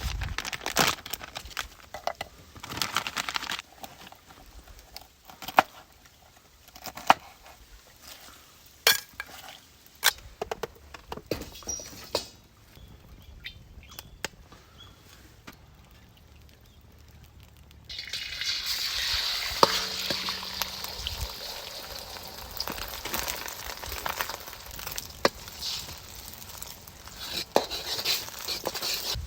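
Metal cookware and utensils clinking and knocking. About eighteen seconds in, a steady sizzle starts suddenly, with crackles through it, as food goes into a hot pan for fried rice.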